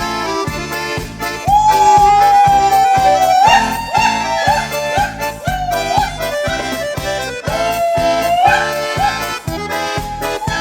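Accordion playing an instrumental introduction to a Russian folk tune: a steady rhythmic chord accompaniment, about two or three strokes a second, under a held melody line that slides up into its notes.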